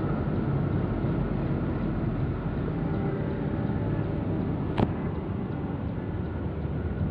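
Steady rumble of a passenger train running, with a single sharp knock about five seconds in.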